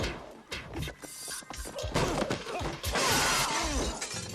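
Fight sound effects: a series of hits and thuds, with something shattering loudly about three seconds in.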